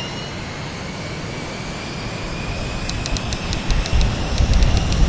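Airliner jet engines spooling up for takeoff: a steady roar with a faint whine that slowly rises in pitch, growing louder as a deep rumble builds near the end. A quick run of light ticks sounds about three seconds in.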